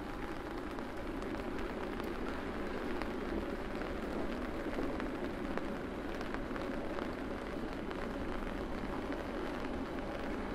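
Steady rain falling, an even hiss dotted with the fine ticks of individual drops.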